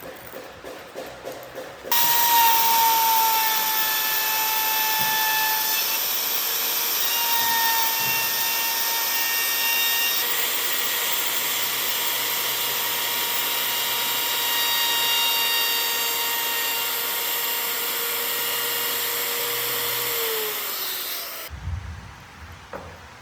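An electric power tool switched on about two seconds in, running steadily with a whine for about eighteen seconds, then winding down, its whine falling in pitch, and stopping.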